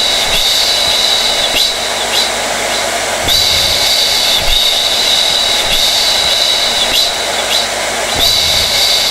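Hair dryer running steadily: a continuous rush of air with a high whine.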